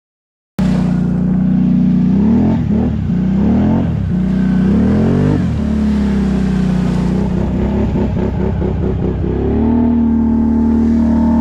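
Can-Am ATV engine revving: the sound cuts in abruptly about half a second in, the pitch rises and falls repeatedly with the throttle, then holds steady near the end.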